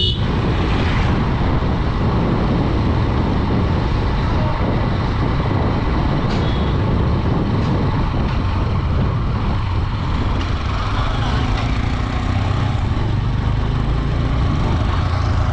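Steady wind rush and road noise while riding a Honda Dream 110 motorcycle, with its small 110cc engine running underneath.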